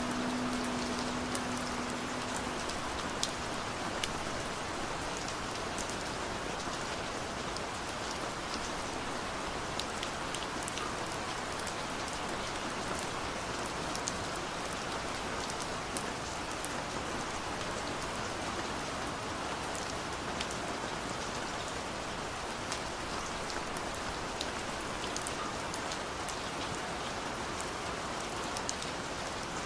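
Steady rain ambience, an even hiss of rain with scattered sharp ticks of drops. A last held musical note fades out in the first couple of seconds.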